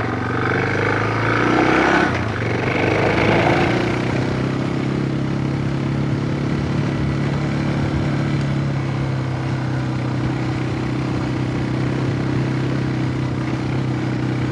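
Suzuki DR650 single-cylinder motorcycle engine running. Its note swells and shifts over the first few seconds, then holds steady.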